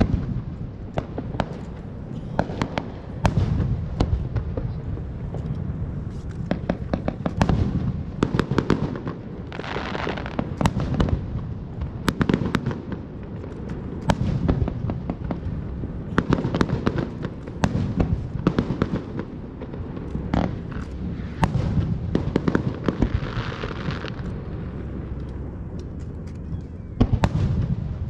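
Fireworks display with shells bursting one after another: many sharp bangs, some close together, with stretches of crackling about ten seconds in and again near the end.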